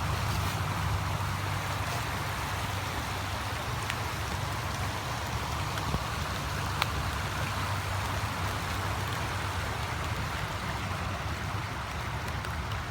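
Steady patter of rain with a low, even rumble of distant interstate traffic underneath, and a couple of faint clicks.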